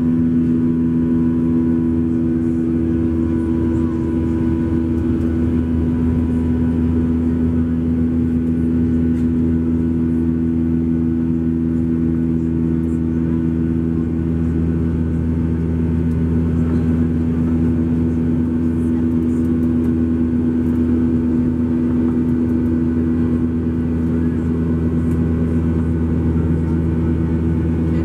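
Steady cabin drone inside a Boeing 737-800 airliner: its CFM56-7B turbofan engines humming with a low rumble and several held tones, unchanging throughout.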